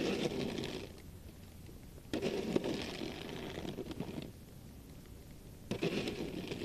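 Snow shovel scraping and pushing snow across a driveway in three strokes of one to two seconds each, with short pauses between.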